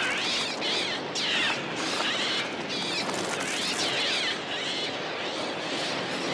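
A flock of birds screeching. Shrill cries rise and fall in pitch, about one or two a second, over a steady rushing hiss.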